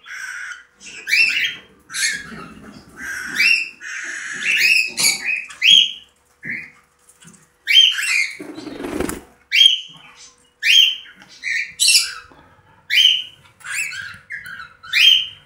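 Pet birds calling in the room: a steady run of short, rising calls, more than one a second. A brief burst of noise comes about halfway through.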